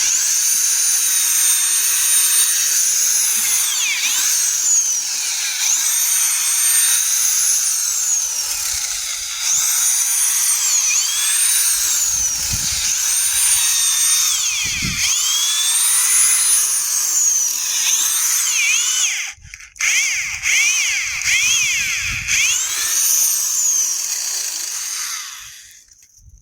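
Corded electric hammer drill turning an auger, its motor whine dipping in pitch and recovering again and again as it comes under load. It stops briefly about two-thirds of the way through, starts again, and cuts off near the end.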